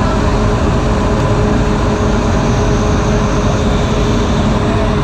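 Indian Railways second-class passenger train running, heard from on board as a loud, steady rumble of the moving carriage.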